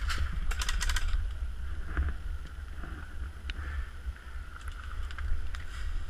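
Low rumble of wind and movement buffeting a GoPro microphone, with a quick burst of airsoft gun fire, a rapid string of sharp clicks, about half a second in, and a few faint single clicks later.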